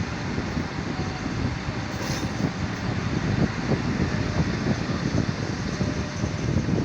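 Diesel railcar engine running steadily, a dense low rumble with a constant rapid flutter.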